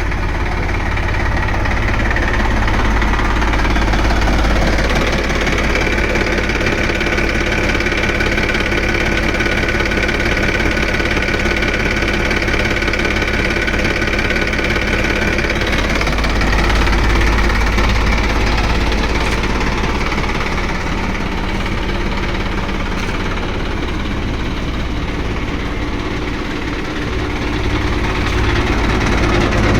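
New Holland 3230 tractor's diesel engine idling steadily, with a faint high whine over it for several seconds early on.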